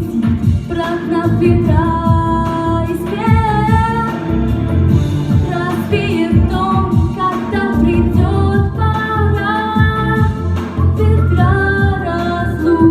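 A female voice singing over a pop backing track with a steady beat.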